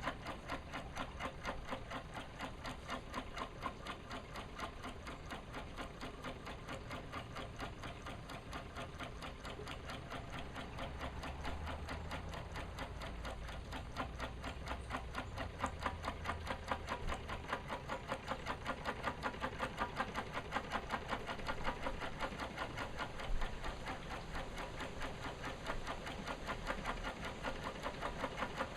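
Mamod SE2 model steam engine running at a steady speed, its single oscillating cylinder giving a rapid, even beat.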